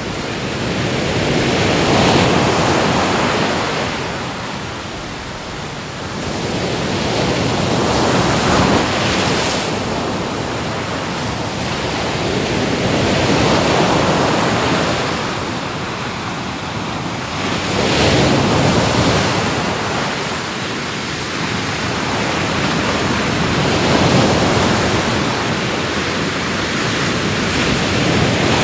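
Ocean waves breaking and washing on a shore, the surf swelling and easing about every five to six seconds.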